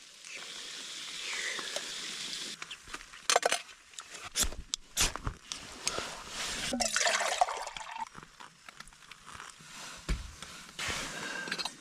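Liquid pouring and sloshing in a few spells, with several sharp knocks and clicks of handled gear between them.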